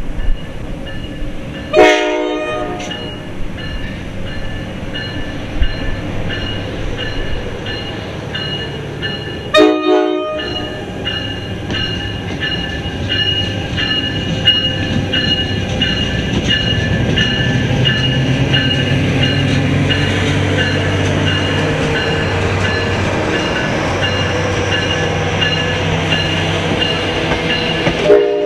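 Passenger train led by diesel-electric locomotive 4510 approaching and running past, its engine hum building and the cars clattering over the rails. Two short horn blasts come about 2 and 10 seconds in, over a steady, evenly repeating ringing.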